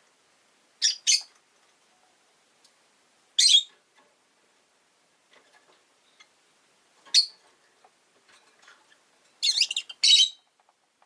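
Rosy-faced lovebirds giving short, shrill, high-pitched calls: a quick double call about a second in, single calls a few seconds apart, and a rapid cluster of calls near the end.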